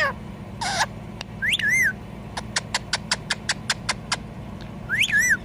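Indian ringneck parakeet calling. First comes a short harsh screech. Then there are whistled calls that rise and fall, and a rapid run of about ten short sharp chirps, about six a second, in the middle.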